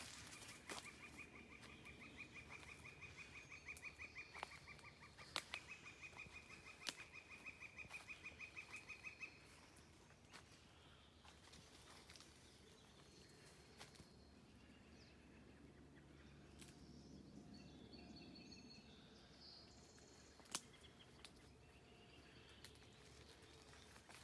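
Faint bird trill: a fast run of identical notes on one high pitch, two long trills of about four seconds each in the first ten seconds, then only scattered faint calls. Occasional soft ticks and crunches of footsteps on a forest path.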